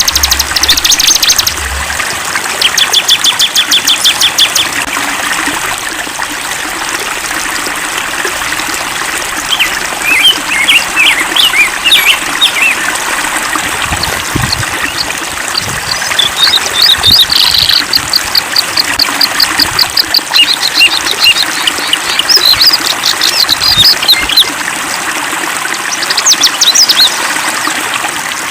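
Songbirds singing in repeated rapid trills and chirping phrases over the steady rush of a flowing stream.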